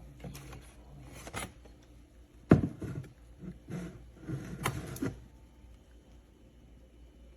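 Scattered clicks and knocks, the loudest a sharp knock about two and a half seconds in, followed by a second or so of rustling and clatter about four seconds in.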